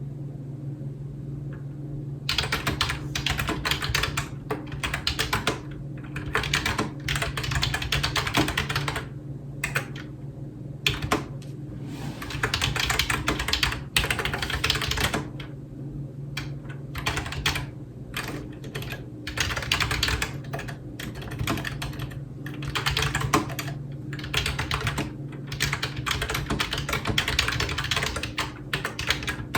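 Typing on a computer keyboard: bursts of rapid keystroke clatter separated by short pauses, starting about two seconds in. A steady low hum runs underneath.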